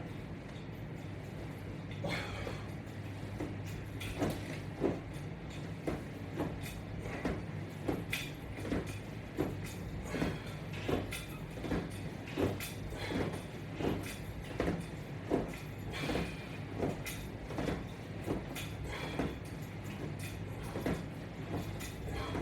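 Rhythmic sounds of a resistance-band and strap workout: a short rubbing or creaking stroke repeated about every 0.7 seconds, over a steady low hum.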